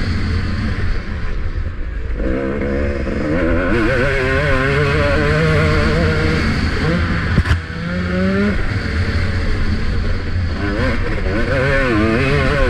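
Motocross bike engine heard from the rider's helmet camera, revving up and down as the throttle is worked over a bumpy track, easing off briefly about a second in. A single sharp knock sounds a little past the middle.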